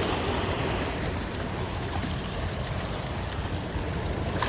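Steady wind rushing over the microphone with sea waves washing.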